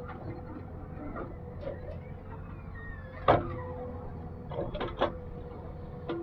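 Heavy machine engine running steadily with a constant hum. Over it come a loud sharp clank about three seconds in and a quick run of knocks shortly after.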